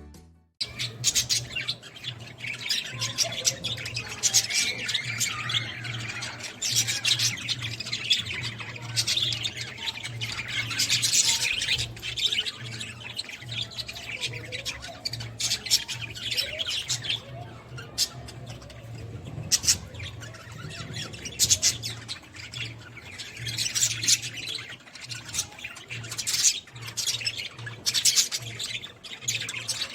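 A flock of small caged birds in an aviary chirping and squawking continuously in a dense, overlapping chatter, with a steady low hum underneath.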